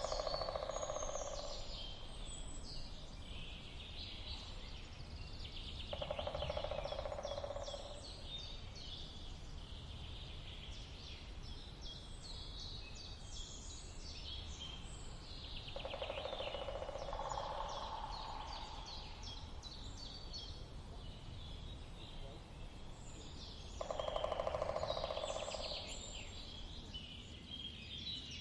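Woodpecker drumming on wood in four rapid bouts of about two seconds each, a few seconds apart, over songbirds chirping steadily.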